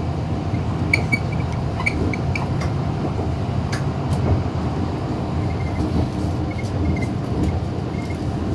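MTR M-train running at speed on the Disneyland Resort Line, heard from inside the car: a steady rumble of wheels on track with a steady hum. Scattered clicks and a few short, high squeaks run through it.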